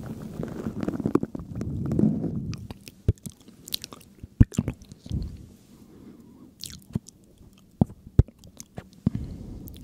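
Close-miked ASMR trigger sounds: a dense, squishy rustle for the first two and a half seconds, then a scatter of sharp, separate clicks.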